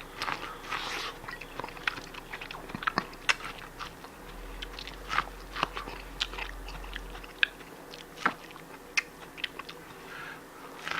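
A person chewing crunchy food close to the microphone: irregular sharp crunches and clicks of biting and chewing, a few to several a second.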